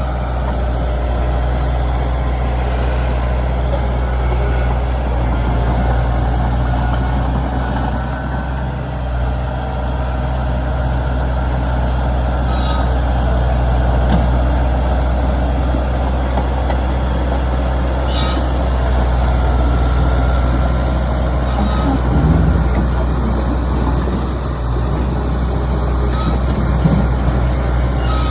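Heavy diesel earthmoving engine running steadily with a deep drone, with a few short clicks along the way.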